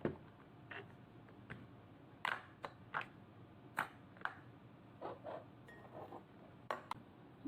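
Scattered light clicks and knocks, about eight sharp ones with softer ones between, as the plastic coffee maker and its parts are handled.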